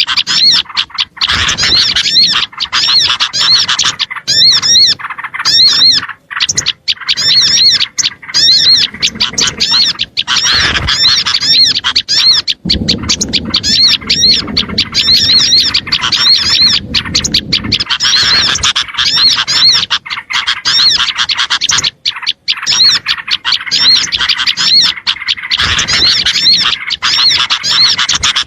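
Dense, loud chorus of small songbirds, many short high chirps repeated rapidly and overlapping without pause. It is a bird-lure recording meant to draw small birds in. A low rumble sits under it for a few seconds in the middle.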